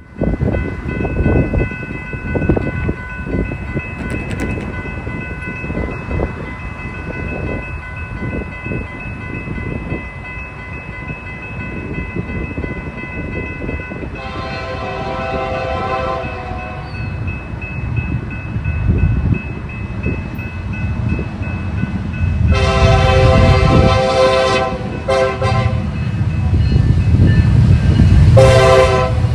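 Diesel locomotive approaching, its engine and wheels a low rumble, sounding its air horn: a long blast about halfway in, then a long, a short and the start of another long near the end. This is the long-long-short-long pattern blown for a grade crossing.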